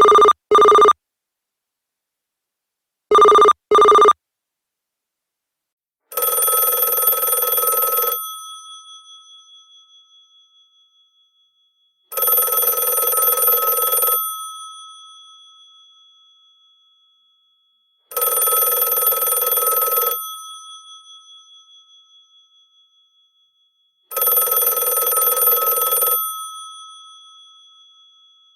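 Telephone ringing. It starts with two short double rings of a steady electronic ring tone. About six seconds in, a mechanical telephone bell takes over and rings four times, about two seconds per ring, once every six seconds, each ring fading away afterwards.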